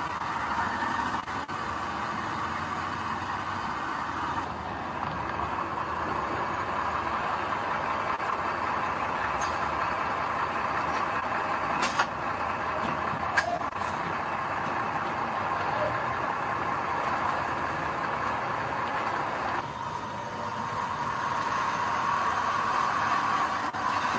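Diesel engine of heavy earthmoving machinery running steadily, with a couple of sharp clanks about halfway through and the engine growing louder near the end.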